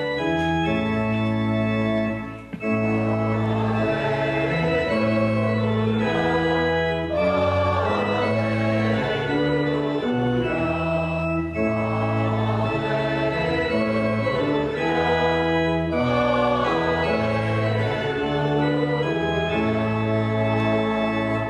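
Church organ playing held chords in short phrases, with a congregation singing along. There is a brief break about two and a half seconds in, and the music dies away at the end.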